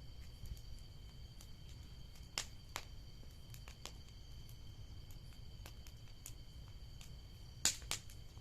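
Bonfire crackling: irregular sharp pops of burning wood, a couple of them louder near the end, over a low steady rumble and two faint steady high-pitched tones.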